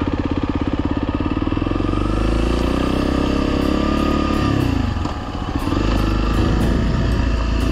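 Honda single-cylinder dual-sport motorcycle engine running under way, climbing in pitch, easing off about five seconds in, then picking up again.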